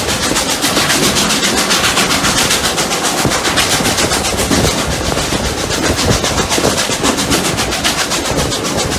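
Two steam locomotives, SAR Rx class and 620 class, working hard up a grade: a fast, steady run of exhaust beats over steam hiss and train running noise.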